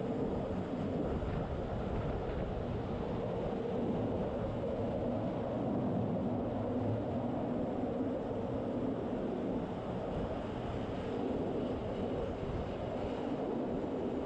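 Rhaetian Railway passenger train running at steady speed: a continuous rumble of wheels on rails, heard from an open window as the train passes close along the walls of a covered snow gallery.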